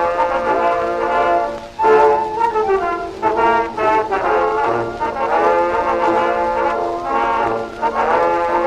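Acoustic-era 78 rpm record of a cabaret dance orchestra playing a brisk one-step, with brass carrying the tune and a narrow, thin bass-light sound typical of horn recording.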